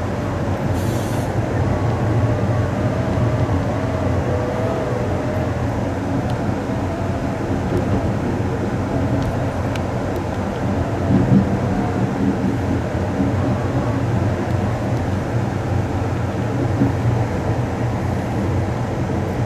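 Amtrak Coast Starlight passenger train running, heard from inside the rear car: a steady rumble of wheels on rail, with a faint wavering whine for a few seconds near the start.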